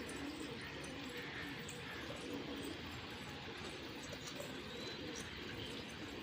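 Pigeons cooing repeatedly, low coos following one another.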